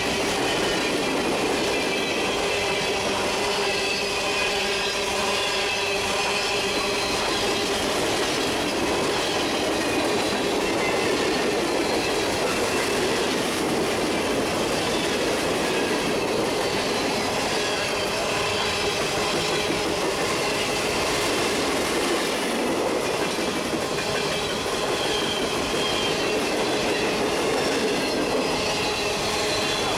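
Freight train of steel coal gondola cars rolling past close by: a steady rumble of steel wheels on rail, with a wavering high-pitched squeal from the wheels.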